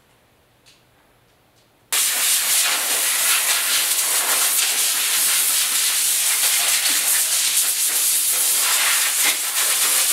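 Loud, steady hiss of air released under pressure, starting suddenly about two seconds in and cutting off abruptly near the end.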